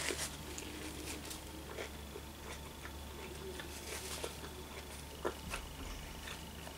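Faint chewing of a sushi roll: scattered small wet mouth clicks over a low steady hum, with a paper napkin dabbed at the lips around the middle.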